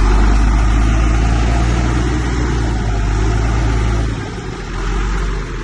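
Heavy diesel engine of earthmoving machinery running with a deep, steady low drone, easing off about four seconds in.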